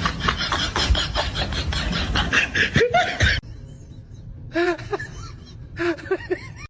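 A person laughing hard in quick, even pulses, cut off abruptly about three and a half seconds in; a few short rising-and-falling calls follow, quieter.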